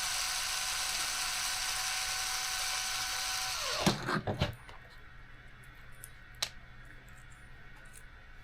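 Small electric screwdriver running steadily, then winding down with a falling whine about four seconds in. A few light clicks and taps of small screws and parts follow.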